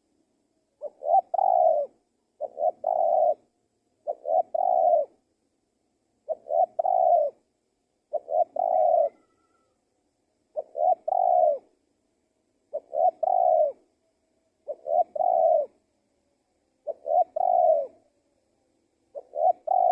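Male spotted dove (tekukur) cooing its song: a short phrase of two quick notes and a longer rolling coo, repeated about every two seconds, ten times. This is the gacor call that lure recordings use to draw wild spotted doves in.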